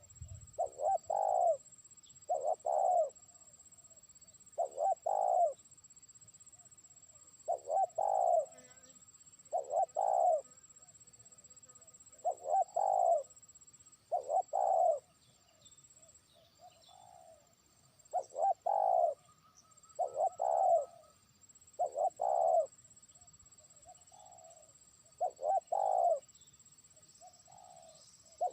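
Spotted dove cooing over and over, a short phrase of two or three coos about every two seconds. It is a trained decoy bird calling out to rival doves.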